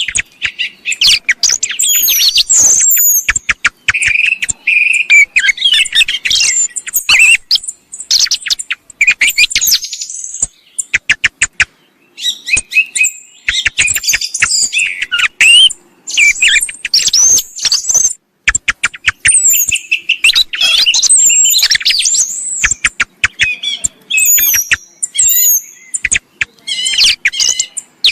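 Song thrush song: loud, varied whistled phrases and rapid runs of sharp, repeated notes in quick succession, with brief pauses between phrases, played as a recorded hunting lure mix.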